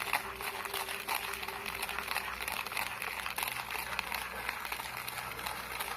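Instant coffee, sugar and hot water being beaten by hand into dalgona foam: a steady stream of quick scraping ticks from the utensil working the mixture, which has begun to foam.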